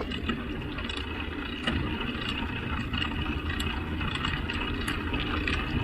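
Steady rumble of a bicycle rolling along, tyres on the road with wind on the microphone, and faint light clicks scattered through it.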